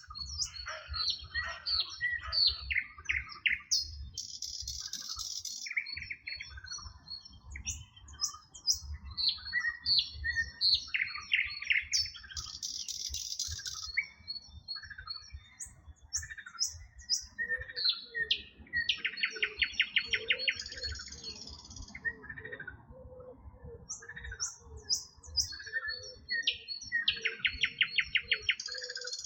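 Several songbirds singing and chirping over one another, with short sweeping notes and a rapid buzzy trill that comes twice, once after the middle and again near the end.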